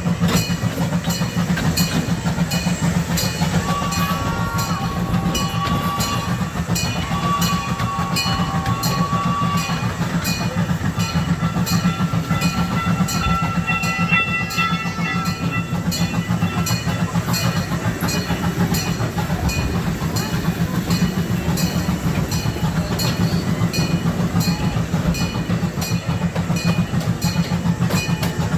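Small amusement-park passenger train running steadily, heard from aboard: a constant rumble of the wheels on the rails with fast, even clicking. A thin high tone comes and goes a few times in the first half.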